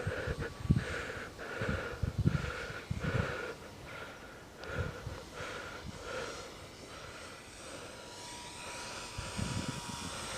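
Electric motor and propeller of a Dynam Beaver RC plane in flight, a distant drone that fades and swells as the plane flies around.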